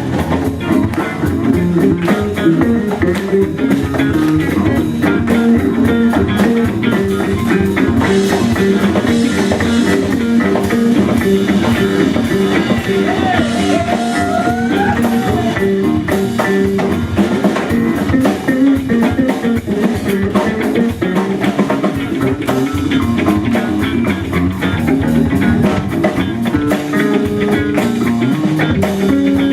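Band playing a funk instrumental on electric guitar and drum kit in a steady, repeating groove, with a sliding lead line about halfway through.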